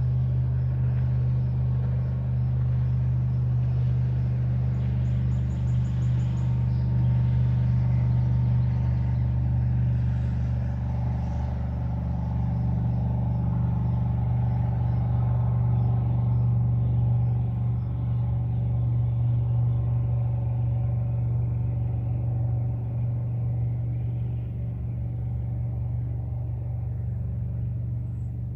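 An engine's steady low rumble with a constant hum, growing fainter over the last several seconds.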